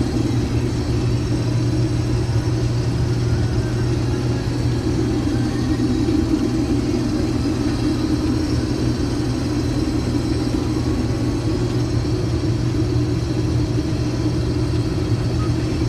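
Case IH 2388 combine running steadily at a constant pitch, a dense low machine rumble with faint high whining tones above it and no change in speed.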